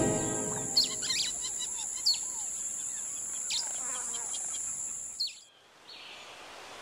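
Small birds chirping, a string of short quick calls that fall in pitch, over a steady high-pitched whine. It all cuts out about five and a half seconds in, leaving a faint hiss.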